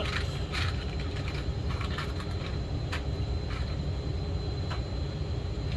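Scattered small clicks and taps of hands working a nut and metal parts on a chainsaw, over a steady low rumble.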